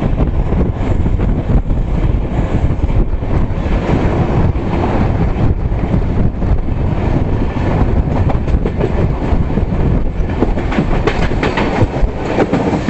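Express passenger train running along the track: a steady loud rumble of wheels on rails, with the clickety-clack of the wheels over rail joints, which comes thicker in the last few seconds.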